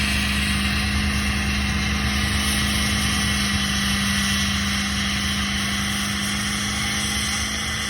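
Truck engine held at steady high revs with an unchanging pitch, then dropping off at the very end.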